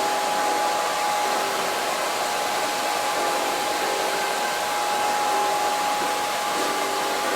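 Hand-held hair dryer blowing steadily, a constant rush of air with a steady motor whine, as the hair is blow-dried for styling.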